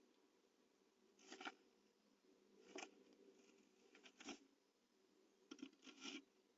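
A great tit moving in moss and hair nest material inside a nest box and scrabbling out through the entrance hole: five short, faint, scratchy rustles, a second or so apart.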